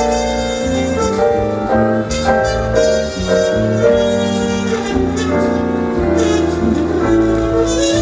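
Live jazz band playing a swing tune: a horn holding long melody notes over piano, a moving bass line and drums with steady cymbal strokes.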